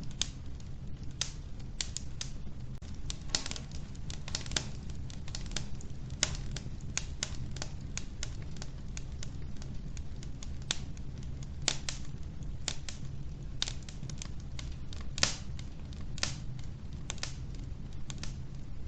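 Logs burning in a wood-burning stove: irregular sharp crackles and pops, several a second at times, over a steady low rumble.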